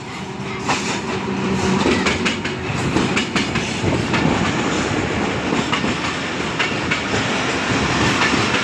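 Diesel locomotive of a passenger train passing close by with a steady engine hum, followed by its coaches rolling past, the wheels clattering rapidly over the rail joints as the train pulls into the station.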